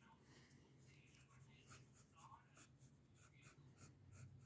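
Faint pencil strokes scratching on paper, about three a second.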